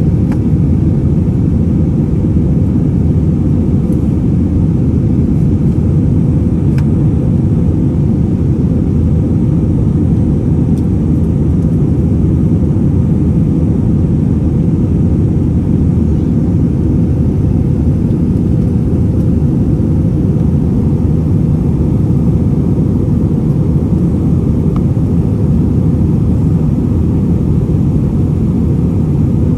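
Steady low rumble of an airliner's engines and airflow heard inside the passenger cabin, unchanging throughout.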